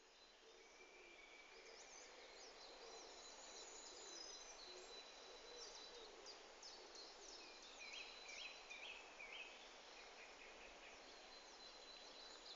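Faint dawn chorus: several birds singing and calling at once, short chirps and trills over a held high note, fading in at the start.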